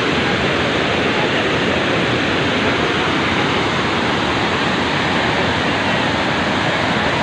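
Vazhachal Falls, a waterfall on the Chalakudy River: a loud, steady rush of water pouring over rocks, without a break.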